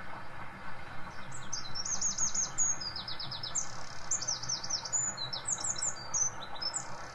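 A songbird singing quick runs of high, falling whistled notes, one phrase after another, starting about a second in, over a steady low rumble.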